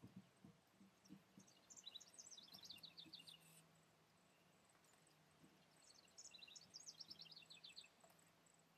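A songbird singing two faint phrases of rapid, high chirping notes, one a little after the start and one about four seconds later, with a soft low thump near the start.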